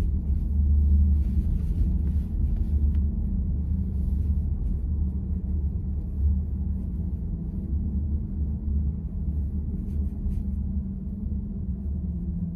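Steady low road and tyre rumble inside the cabin of a moving VW ID.4 electric car, with a few faint ticks.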